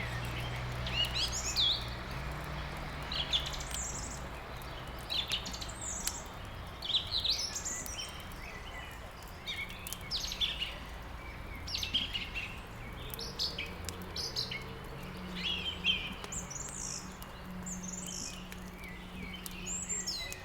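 Songbirds chirping and twittering, with many short high calls and trills overlapping, over a low steady hum.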